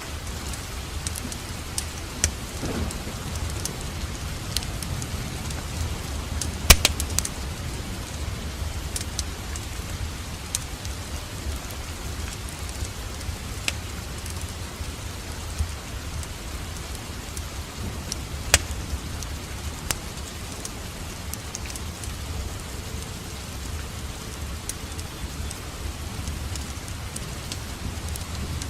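Steady rain mixed with a crackling wood fire: a constant low rumble and hiss with scattered sharp pops and snaps, the loudest about seven seconds in.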